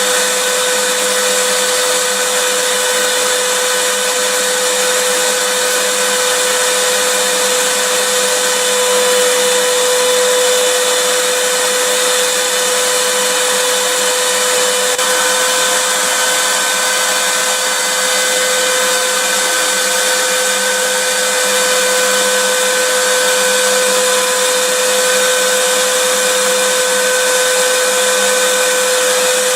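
Vacuum cleaner running steadily: a constant rushing of air with a high motor whine, unchanging throughout.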